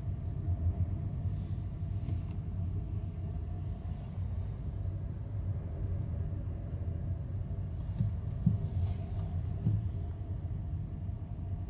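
Steady low rumble and drone of a Hankyu ferry's engines and hull, with a few soft low thumps about two-thirds of the way through.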